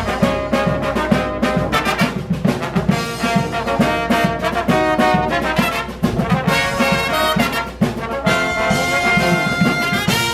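Brass band playing a lively tune, with a bouncing low bass line under the higher horns.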